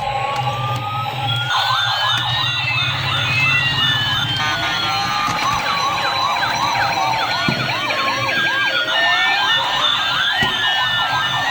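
Electronic siren sounds from a toy police car, several siren patterns sounding at once: slow rising and falling wails overlapped by fast repeating yelps, over a steady low hum.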